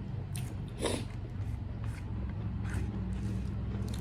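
Eating sounds: a few short, sharp mouth smacks and clicks while chewing food, the strongest about a second in, over a low steady hum.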